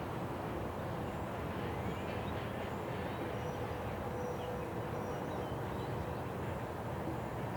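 Freight cars rolling past at a steady speed, a continuous rumble of steel wheels on rail with a faint ringing tone from the wheels. Birds chirp faintly in the background.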